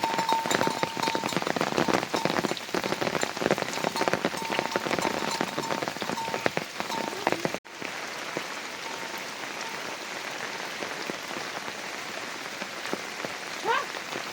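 Heavy rain falling, with dense close drop hits for the first half. About halfway through it cuts to a steadier, quieter rain hiss, with a short rising chirp near the end.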